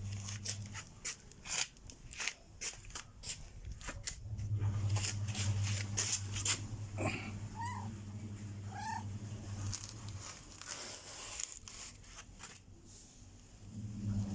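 A cat giving three short meows about halfway through, among scattered clicks and rustles, over a steady low hum that drops out for stretches.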